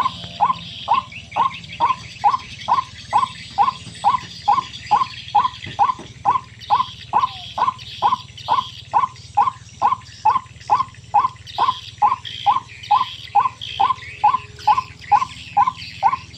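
White-breasted waterhen calling: a monotonous run of short, identical notes repeated at about two a second without a break.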